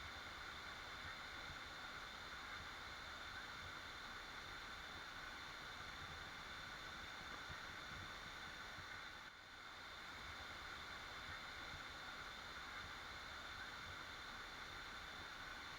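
Waterfall rushing in a steady, even hiss, dipping briefly about nine seconds in.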